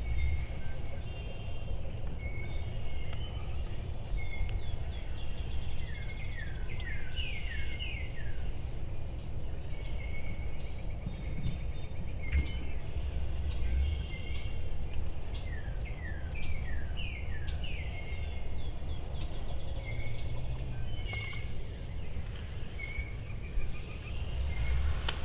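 Several songbirds singing, with repeated runs of quick down-slurred whistled notes and scattered chirps, over a steady low wind rumble.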